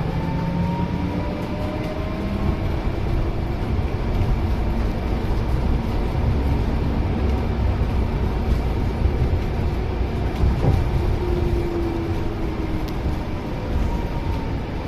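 Scania C250EB bus with Bustech VST body heard from inside the cabin while driving: a steady engine drone and road rumble. The engine note climbs in the first couple of seconds and sinks again about eleven seconds in.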